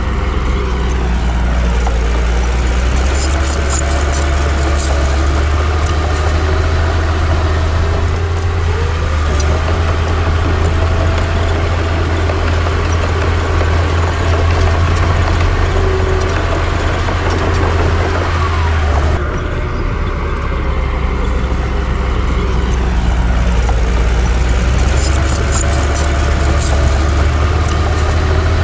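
Heavy diesel earthmoving machinery running with a deep steady engine hum, its pitch rising and falling under load, and bursts of metallic clicking twice. The sound changes abruptly about two-thirds of the way through.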